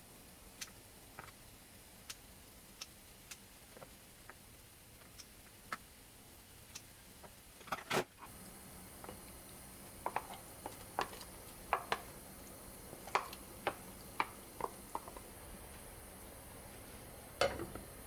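Kitchen handling sounds: scattered clinks and knocks of dishes, pots and utensils being set down and moved, with a louder knock about eight seconds in and a quick run of clinks a little later.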